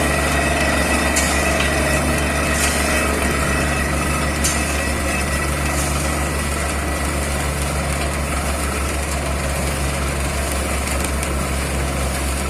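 Borewell drilling rig and its air compressor running steadily: a constant deep engine drone, with a few faint clicks in the first few seconds.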